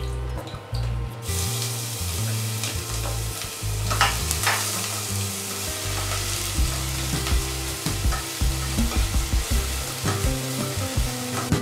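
Ginger-garlic paste and green chili sizzling as they hit hot oil in a stainless steel pot, starting about a second in, while a spoon stirs them. The spoon knocks twice against the pot about four seconds in.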